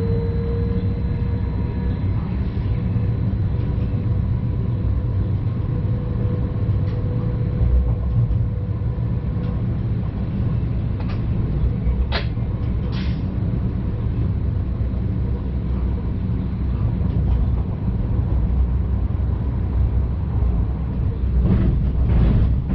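Stadler FLIRT Sm5 electric train running, heard from the cab: a steady low rumble with a faint steady whine. A few sharp clicks come about halfway through and again near the end.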